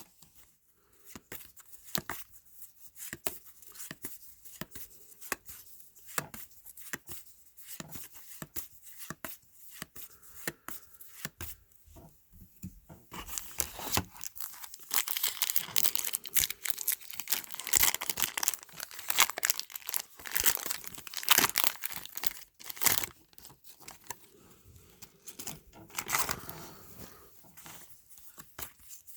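Trading-card pack wrappers being torn open and crinkled, a run of small crackles and clicks, growing denser and louder in the middle stretch.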